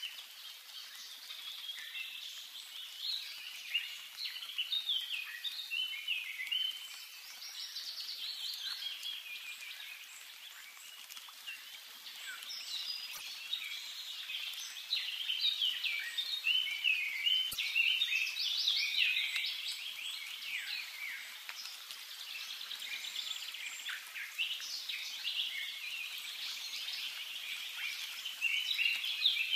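Several birds singing together: a dense chorus of overlapping chirps, trills and quick whistled phrases.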